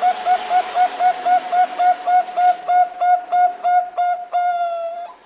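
Bangkok zebra dove (perkutut bangkok) calling: a fast run of short, clear, hooked notes, about four a second, ending in one longer held note that dips slightly in pitch.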